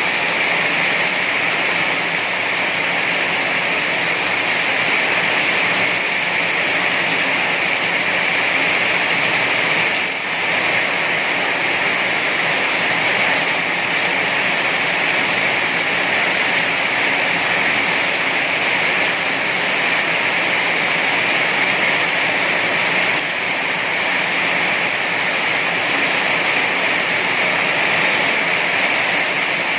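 Heavy rain falling steadily, a dense even hiss that dips only slightly twice.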